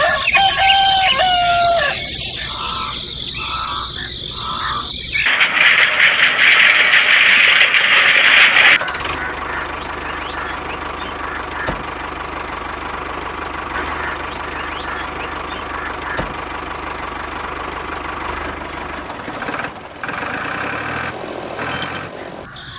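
A rooster crowing at the start, followed by a few seconds of loud hissing noise and then a long stretch of steady noise with a low hum.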